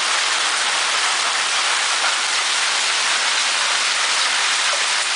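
Heavy downpour of rain and hail, a steady dense hiss with no let-up.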